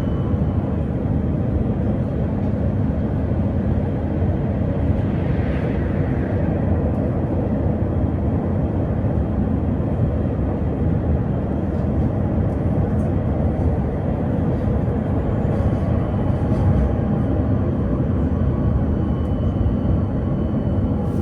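Steady running noise heard inside a PKTS 71-931M Vityaz-M tram in motion between stops: a low rumble of wheels on rails and traction gear. A brief hiss rises over it about five and a half seconds in.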